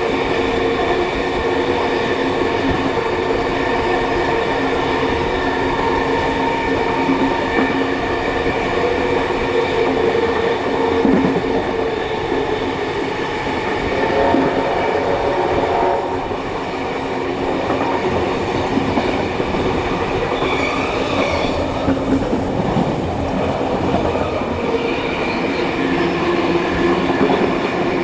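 Steam-hauled passenger train running along the track, a steady rumble of wheels on rail with some clickety-clack and a steady hum.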